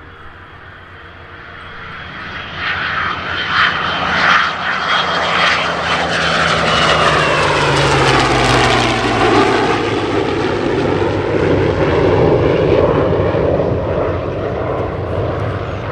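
Propeller-driven airplane flying a pass: the engine grows louder over several seconds, peaks, and its pitch drops as it goes by about nine seconds in, then stays loud as it moves away.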